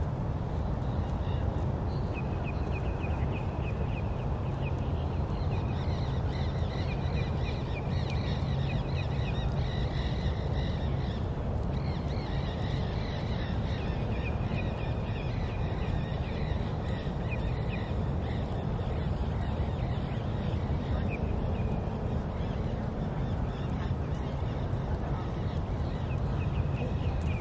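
Birds calling over and over in short, high, chattering series above a steady low rumble of open-air background noise. The calls thin out for a few seconds before the end, then start again.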